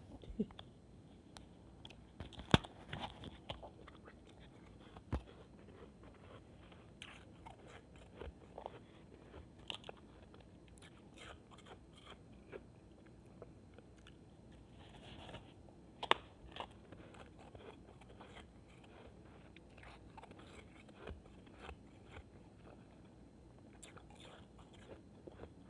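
Shaved ice being bitten and chewed: scattered crisp crunches and small crackles, with two sharp, loud bites about two and a half seconds in and again around sixteen seconds.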